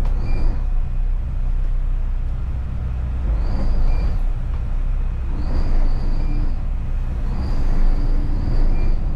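The twin engines of a 70-foot Riva motor yacht running at low docking speed, a steady low rumble. Four brief higher-pitched whines come and go over it.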